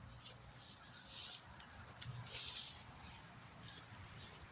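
Insect chorus: a steady, unbroken high-pitched trill, with soft rustles now and then and a faint low rumble underneath.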